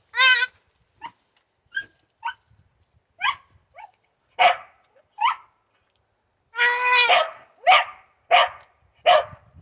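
A baby goat bleating in a long, quavering call at the start and again about seven seconds in, amid a dog's short, repeated barks that come more regularly, about every two-thirds of a second, in the second half.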